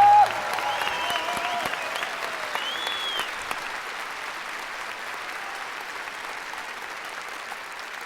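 Studio audience applauding, with a few whoops in the first few seconds, the clapping slowly fading. A brief loud held tone sounds right at the start.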